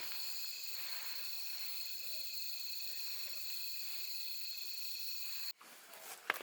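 Steady, high-pitched insect chirring, several tones at once, typical of crickets. It cuts off abruptly about five and a half seconds in, leaving faint background and a small click near the end.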